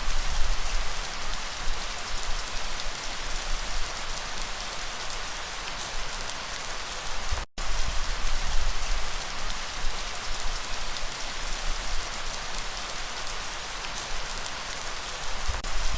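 Steady rain falling, an even hiss with scattered small drop ticks. The sound cuts out completely for a split second about halfway through.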